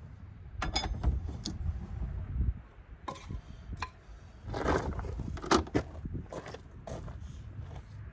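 Irregular metallic clicks, clinks and knocks with short scrapes, typical of hand tools and metal parts being handled during suspension work, over a low rumble.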